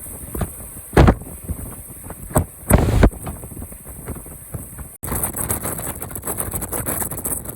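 Typhoon-force wind buffeting the microphone in short, loud blasts, about one and three seconds in, over a steady rush of wind and rough sea. About five seconds in the sound cuts to a denser, steady roar of wind and surf.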